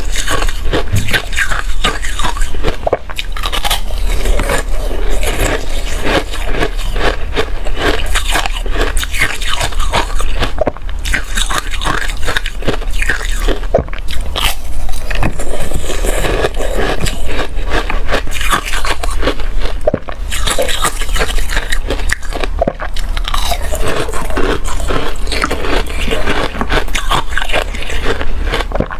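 Ice being bitten and chewed close to the microphone: a dense, irregular run of loud, sharp crunches and cracks as hard ice breaks between the teeth.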